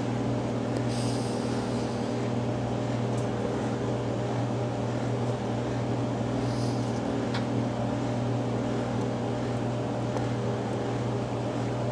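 Microwave oven running with a DVD heating inside: a steady electrical hum with fan noise.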